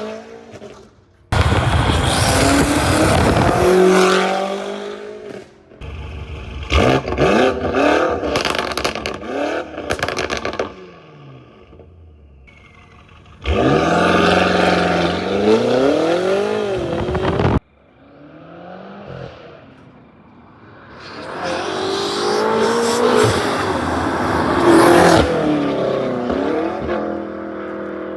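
BMW F90 M5 Competition's twin-turbo V8, with catless downpipes and no exhaust valves, revving hard in several loud bursts. The pitch climbs and falls, with crackles around the middle, and one burst cuts off suddenly a little past halfway.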